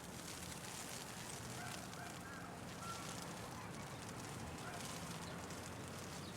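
Steady patter of hail falling, over a low rumble of city traffic, with a few faint short tones now and then.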